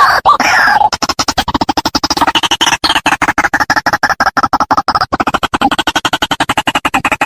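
White-breasted waterhen calling. A few short calls that bend in pitch give way, about a second in, to a fast, even run of harsh pulsed notes, roughly ten a second.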